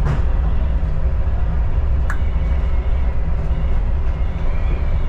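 Adelaide Metro diesel railcar running on the Belair line, heard from inside the carriage: a steady low rumble, with a sharp click at the start and another about two seconds in.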